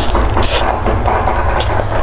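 Close-miked biting and chewing of a taro-ball pastry with a soft mochi layer, with a couple of short sharper bite sounds, over a steady low hum.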